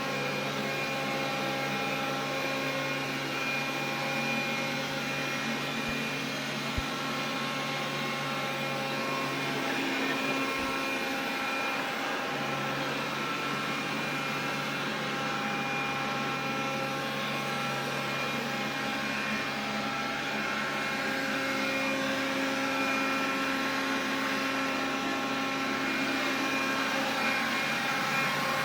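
Xiaomi vacuum cleaner running steadily: a motor whine of several steady tones over airflow hiss, with a low hum that drops out for a couple of seconds about ten seconds in. This is the extraneous noise the owner is complaining about.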